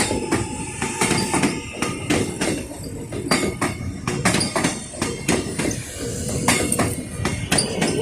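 Metro suburban train wheels clattering over rail joints and points: a run of irregular sharp clanks and knocks, several a second, over a steady rumble.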